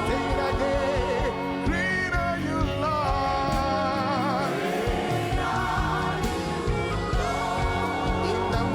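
Gospel worship music: voices singing long, wavering held notes over a steady instrumental accompaniment.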